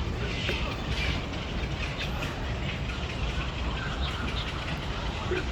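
Birds chirping and calling faintly over a steady low rumble of outdoor background noise.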